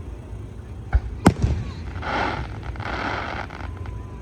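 Fireworks display: two shells burst about a second in, the second a sharp, loud bang, followed by about a second and a half of softer noise.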